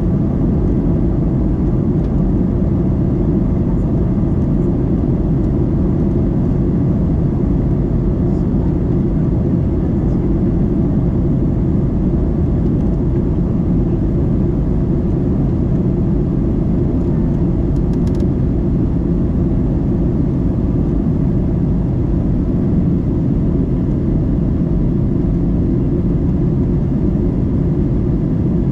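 Airliner cabin noise during the descent: a steady low rumble of engines and rushing air that does not change.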